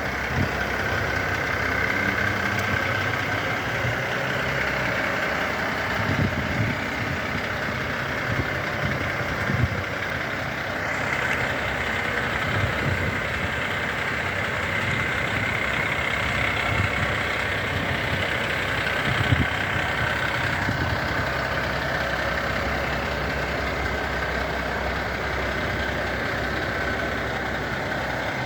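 Renault Midlum fire truck's diesel engine idling steadily, with a few brief low thumps.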